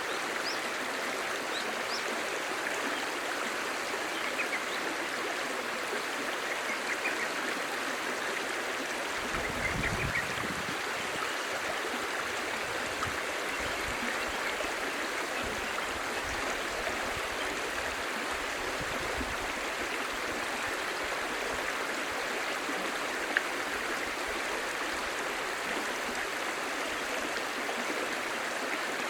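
Clear stream babbling steadily, a continuous even rush of flowing water. A low rumble swells up twice, about a third and two-thirds of the way through, and a single sharp click stands out near the end.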